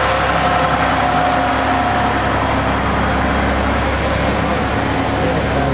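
Heavy truck diesel engine running steadily.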